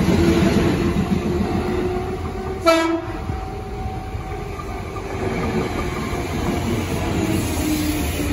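Sanyo Electric Railway commuter trains: a departing train's wheels and motors run close by and fade, with one short horn blast about three seconds in. An arriving train's running noise and a motor whine that slides in pitch build again toward the end.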